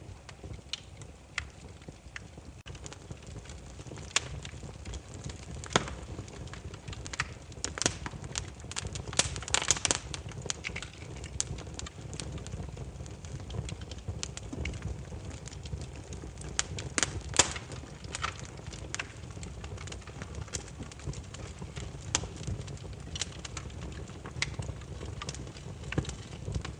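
Burning firewood crackling, with irregular sharp pops and snaps over a steady low rumble. The pops come thickest about nine to ten seconds in, with another loud snap a little past halfway.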